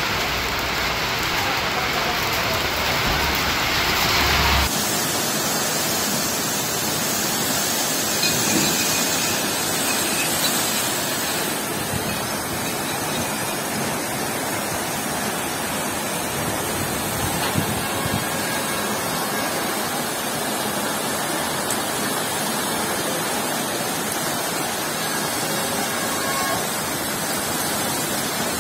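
Heavy rain pouring down steadily in a sudden downpour. About four and a half seconds in, the sound changes abruptly: the low rumble drops out and the rain becomes a brighter, even hiss.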